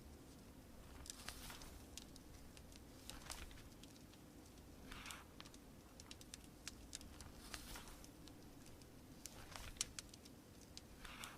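Wood fire crackling with scattered sharp pops, and a soft rustle of paper pages turning every few seconds, over a faint steady bed of rain.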